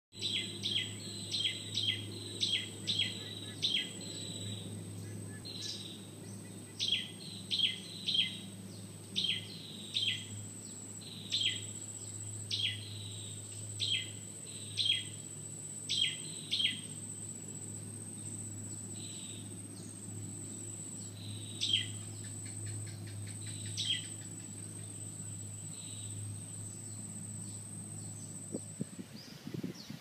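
A bird giving short, sharp calls in quick runs of about two a second, thinning out and stopping a few seconds before the end. Under them runs a steady high-pitched insect whine and a faint low hum.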